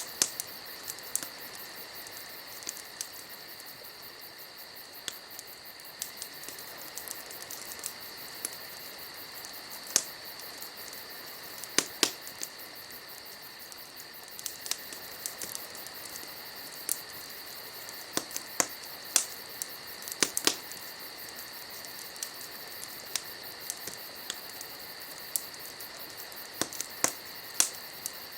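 Wood fire crackling, with irregular sharp pops and snaps scattered through, over a steady high-pitched chorus of insects singing.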